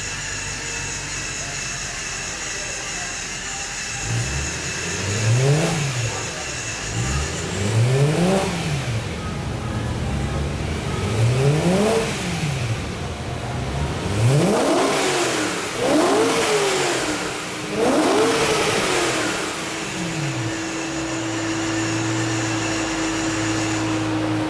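BMW M3 engine breathing through a freshly fitted Akrapovic Evolution exhaust: it idles, is blipped about six times in quick rises and falls of revs, and then settles back to idle.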